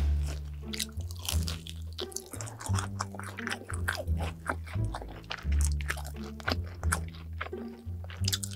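Close-miked crunchy chewing of crispy breaded fried chicken tenders, a dense run of sharp crunches. Low bass notes of background music run underneath.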